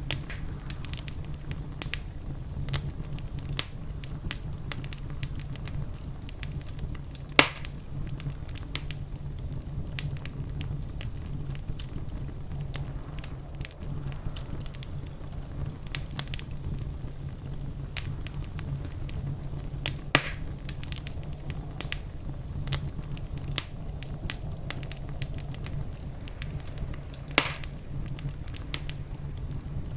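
Fireplace fire crackling steadily, with many small snaps over a low steady rumble. Three louder pops stand out: one about a quarter of the way in, one around two-thirds, and one near the end.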